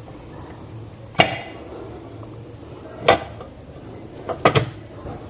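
Four sharp knocks as the cover half of a CG motorcycle engine's crankcase is worked into place against the other half: one about a second in, one about three seconds in, and a quick pair near the end.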